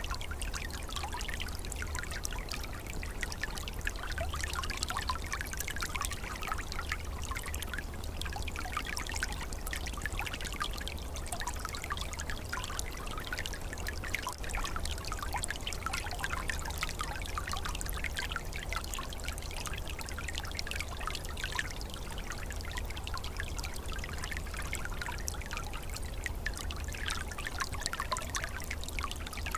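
Small forest stream, its water flowing and trickling steadily with many small splashes, and a low steady rumble underneath.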